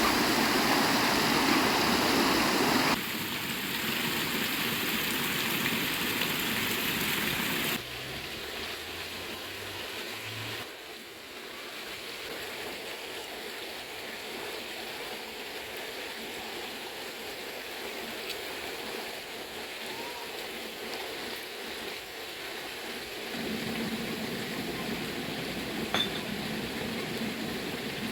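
Running river water, a steady rushing noise whose loudness and tone change abruptly a few times.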